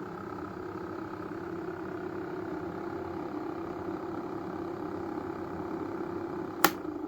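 Small battery-powered electric fan motor running with a steady hum, with one sharp click near the end.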